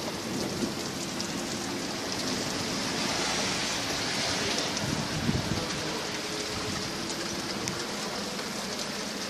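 Steady rain from a spring thunderstorm, with many separate drops ticking on a nearby surface; a brief low rumble swells about five seconds in.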